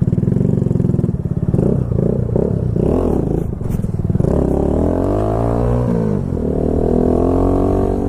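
Kawasaki Z125's single-cylinder engine, fitted with a home-made exhaust, pulling away and revving through the gears, its pitch dropping and climbing again with the shifts.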